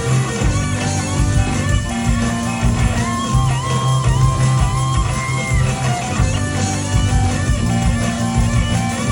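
Rock band music with electric guitar: a lead guitar line of sliding, bent notes over steady rhythm guitar and bass.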